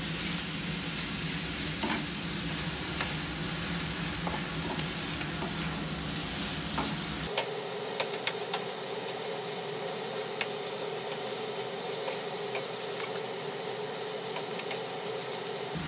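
Fried rice sizzling in a hot nonstick frying pan as it is stirred and turned with a wooden spatula and a plastic spoon, with scattered light clicks and scrapes of the utensils against the pan.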